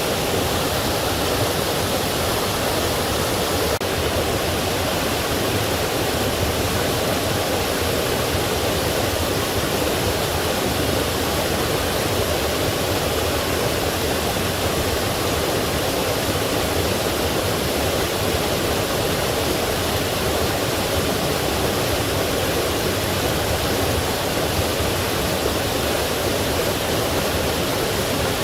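Forest stream rushing over rocks and small falls, a steady, even rush of water.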